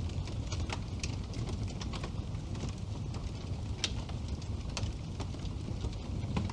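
Burning wood crackling in a fireplace: irregular sharp pops and snaps over a steady low rumble of the flames, with the loudest pop about four seconds in.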